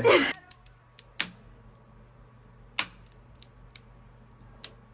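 Asphalt sound-deadening mat on a car floor cracking and ticking as it freezes under dry ice and isopropyl alcohol: irregular sharp clicks, about eight or nine over a few seconds, a sign the deadening is going brittle and releasing from the floor pan.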